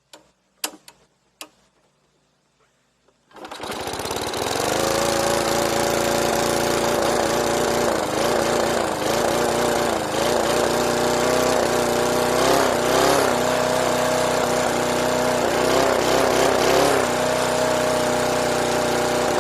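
A few sharp clicks, then a 3 horsepower Briggs & Stratton flathead lawn mower engine starts about three seconds in and runs loud and fast. Its pitch wavers up and down through the middle stretch before steadying, and the sound cuts off abruptly at the very end.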